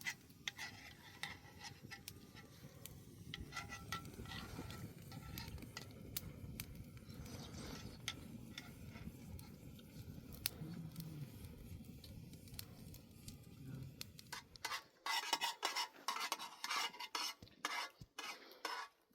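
Utensils clinking, scraping and stirring against metal pots and dishes, a string of small knocks that turns into louder, busier clattering for the last few seconds.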